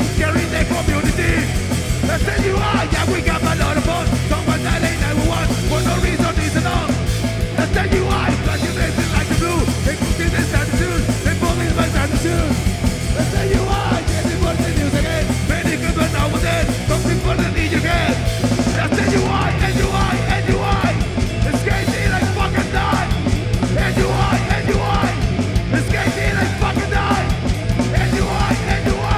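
Punk rock band playing live at full volume: a continuous, dense wall of band music.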